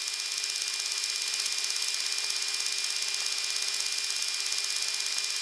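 Steady flight-deck background noise of an E-3 Sentry climbing out: an even hiss with a faint steady hum under it.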